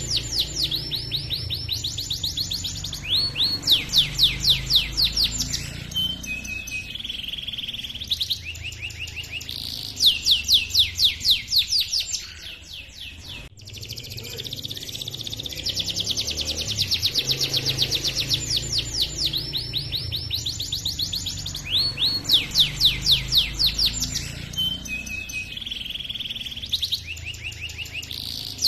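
Male domestic canary singing a long rolling song: fast trills of rapidly repeated high notes, changing speed and pitch from phrase to phrase. After a short lull about halfway through, the same run of phrases plays again, as in a looped recording.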